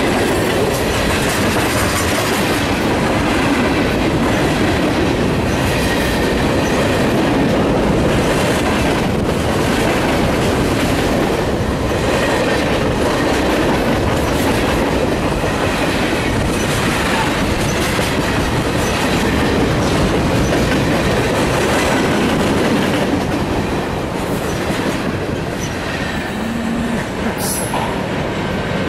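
CN Rail freight train of tank cars and boxcars rolling past close by, its wheels clacking steadily over the rail joints. The sound eases a little near the end as the last cars pull away.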